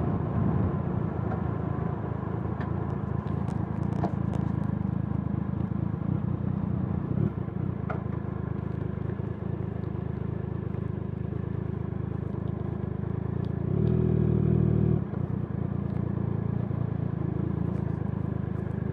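Motorcycle engine running steadily at highway cruising speed, with road and wind noise. About fourteen seconds in, a louder pitched tone lasts for about a second.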